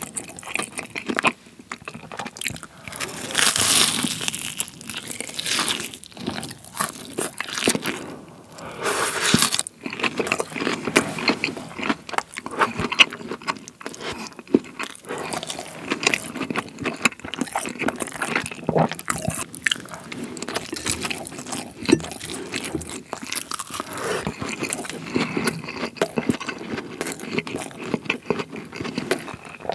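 Close-miked eating of a breaded, deep-fried cheese pork cutlet: crisp crunching bites through the fried crust and steady chewing. The loudest crunches come about four and nine seconds in.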